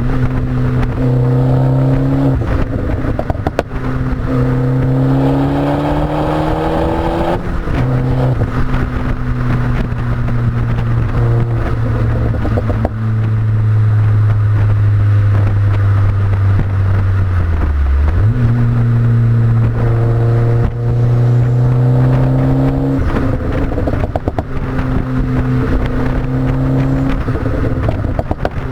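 Abarth 500's turbocharged 1.4-litre four-cylinder running through a Milltek exhaust while driving. The engine note climbs, breaks off about seven seconds in at a gear change, holds steady for a long stretch, drops sharply about two-thirds of the way through, then picks up again.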